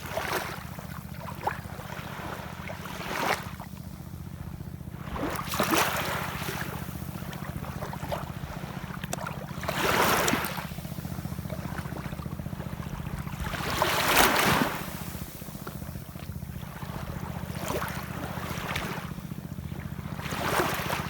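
Ocean waves washing in every few seconds, each surge swelling and fading, with the biggest ones about 10 and 14 seconds in, over a steady low rumble.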